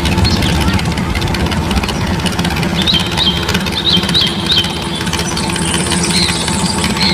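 Tractor engine running steadily with a low, even hum. Several short, high chirps come in around the middle.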